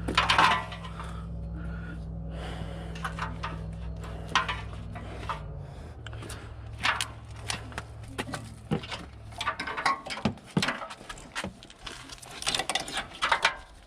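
Clicks, knocks and rubbing of car body and cooling-system parts being handled and fitted, over a steady low hum that stops about ten seconds in.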